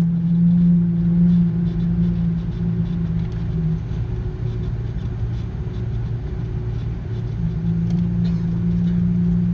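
Airbus A330 cabin noise on the ground after landing: a steady low rumble with a droning hum, one tone of which fades out about four seconds in and comes back near the end.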